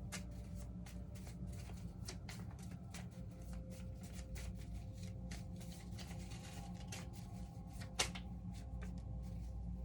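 Tarot cards being shuffled and handled: irregular light clicks and snaps of card stock, with one sharper snap about eight seconds in.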